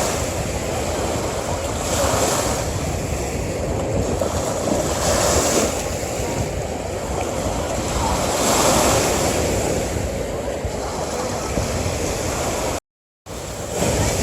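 Ocean surf breaking on a beach: a continuous hiss of water that swells with each wave about every three seconds. Near the end it cuts out to silence for about half a second, then resumes.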